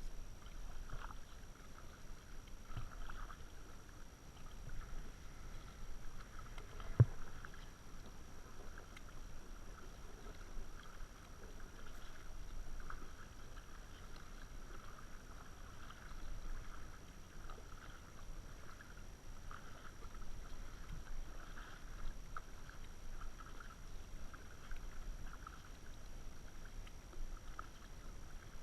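Kayak being paddled: water splashing and dripping as the paddle dips, with a single sharp knock about seven seconds in.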